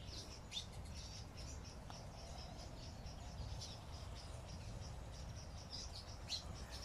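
Faint, steady chirring of insects, with a few short bird chirps.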